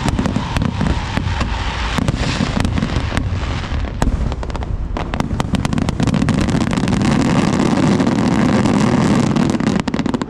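Fireworks going off in quick succession: many sharp cracks and pops over a continuous low rumble, thickest in a flurry of cracks about five seconds in.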